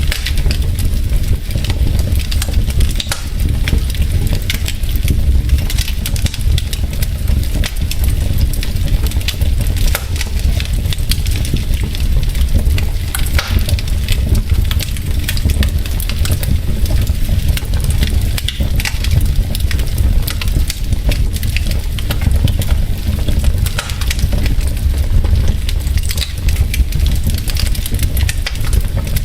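Wood logs burning in a fireplace, crackling with frequent sharp pops and snaps over a steady low rumble.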